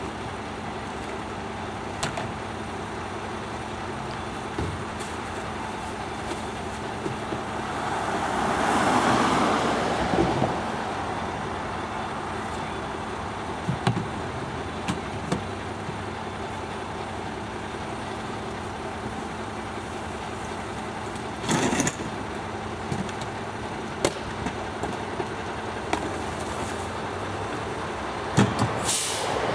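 Garbage truck engine running steadily, with several sharp clanks and bangs and a louder swell of noise about a third of the way in.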